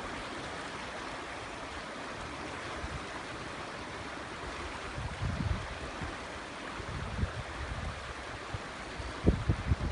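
River water rushing steadily. Strong wind buffets the microphone in low gusts from about halfway through, the strongest near the end.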